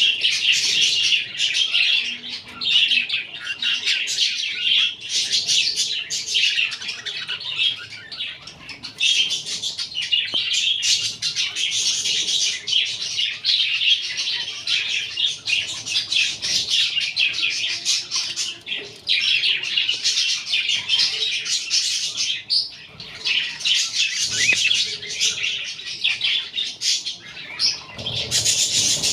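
Budgerigars chirping and chattering in a busy, almost unbroken stream of high twittering, with brief lulls.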